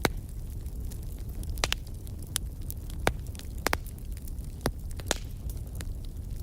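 Wood campfire crackling: irregular sharp pops and snaps of burning wood over a steady low rumble of the flames.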